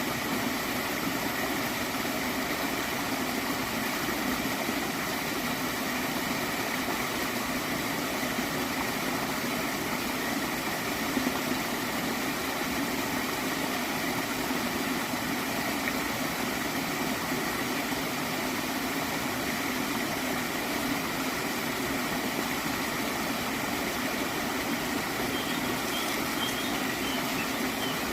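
Steady flow of a small water stream gurgling, even and unbroken.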